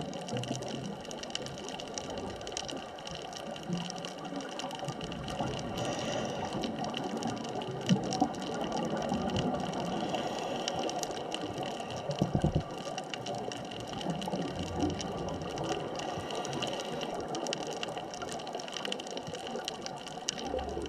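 Underwater ambience at a deep reef: a steady hiss thick with fine crackling clicks and a faint steady hum. A few brief low thumps stand out, around eight and twelve seconds in.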